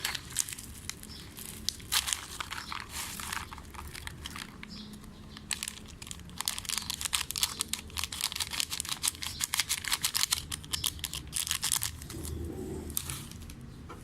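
Plastic seasoning sachets crinkling as they are handled and torn open, in two long spells of crackling: one about two seconds in, the other from about six to eleven seconds.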